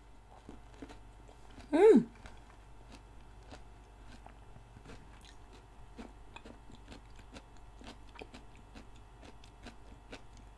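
Close-up chewing of peach pieces in shaved ice: soft, repeated crunching clicks. About two seconds in there is a short vocal sound that slides in pitch.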